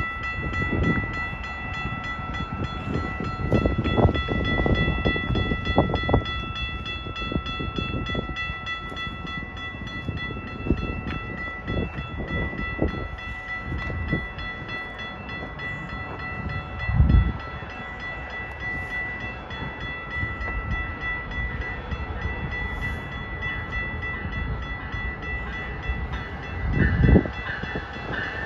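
A train running on the rails: a steady rumble with irregular heavy thumps and knocks, the loudest about four, seventeen and twenty-seven seconds in, under steady high-pitched tones that hold almost throughout.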